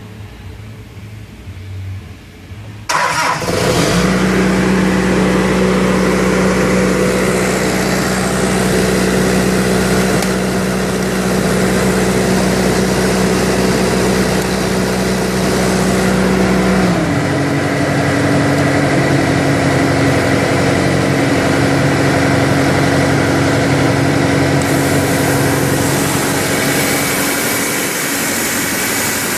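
Lincoln Air Vantage 500 diesel welder-generator-compressor engine starting suddenly about three seconds in and running steadily. About 17 seconds in it drops to a lower speed, and a hiss rises near the end.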